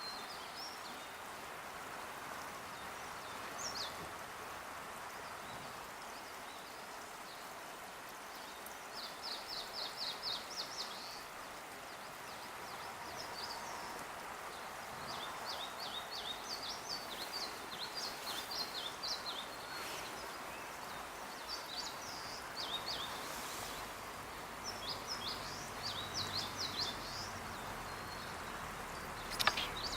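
Small songbirds singing in repeated quick series of high chirps and trills, over a steady background hiss. A single sharp tap comes near the end.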